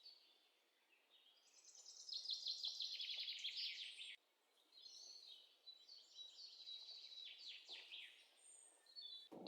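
Birds chirping faintly, with a quick run of rapid repeated notes about two to four seconds in, the loudest part, then scattered chirps.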